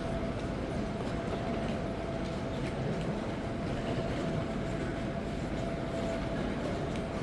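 Steady rumbling noise of a running vehicle or machinery, with a thin steady hum on top.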